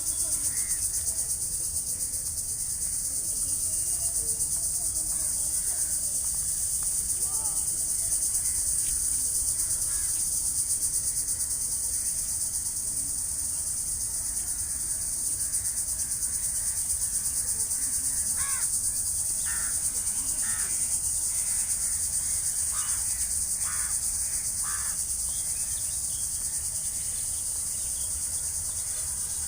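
Steady high-pitched chorus of insects trilling without a break. A few faint short chirps come in during the second half.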